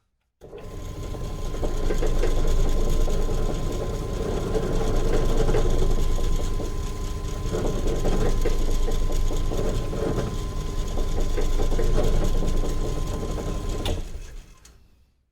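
Pillar drill motor switched on, running and drilling a hole in a hardwood stick, its sound swelling and easing as the bit cuts, with a steady whine; it is switched off near the end and spins down.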